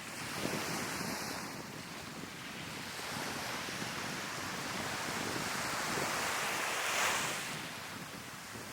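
Sea waves breaking and washing up the shore, swelling twice, loudest about seven seconds in, with wind buffeting the microphone.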